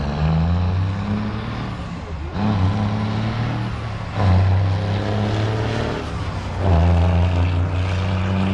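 Heavy diesel truck engines running, getting louder in surges about two, four and six and a half seconds in.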